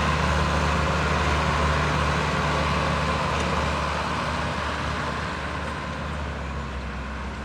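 Sonalika All Rounder DX 55 tractor's diesel engine running steadily, growing gradually quieter toward the end.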